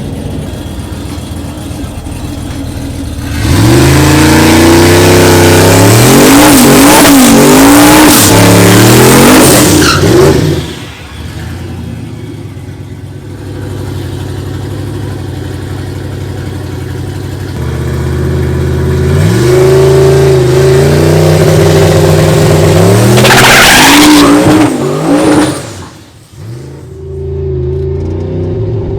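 V8 pickup truck engines revved hard with the rear tires spinning and squealing, twice: each lasts several seconds, the engine pitch wavering up and down, with the engines running quieter in between.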